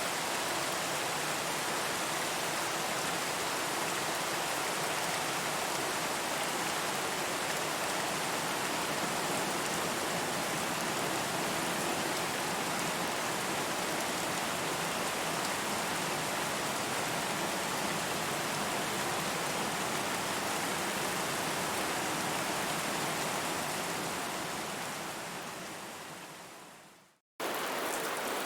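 Steady rain with an even hiss. About 25 seconds in it fades out to a moment of silence, then rain cuts back in suddenly near the end.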